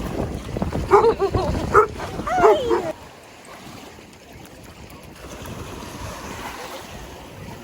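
A dog barks and yips several times in the first three seconds, short high calls that bend in pitch. Then only a steady wash of surf and wind noise.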